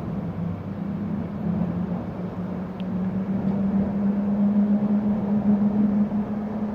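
Stoosbahn funicular car running along its track, a steady hum with rumble that grows slowly louder.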